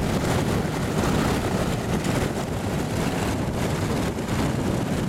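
Douglas DC-3's radial piston engines running steadily with the propellers turning.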